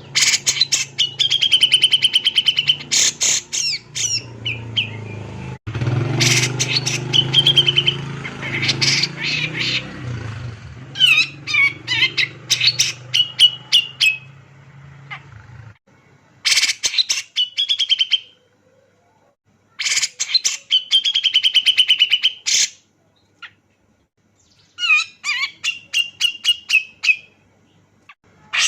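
A male grey-cheeked bulbul (cucak jenggot) sings loud, repeated phrases, about seven of them. Each is a fast rattling chatter that ends in a short held whistled note. A low steady hum lies under the song and stops about halfway through.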